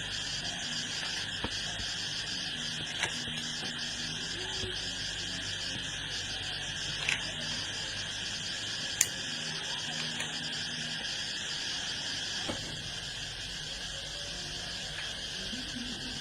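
Steady outdoor insect chorus, crickets or similar, running throughout, with a few sharp knocks or clicks, the loudest about halfway through.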